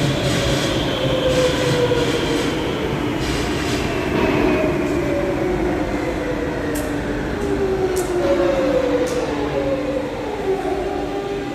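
Madrid Metro train's electric motors whining, the pitch falling steadily in several successive glides as the train slows, with a few sharp clicks in the second half.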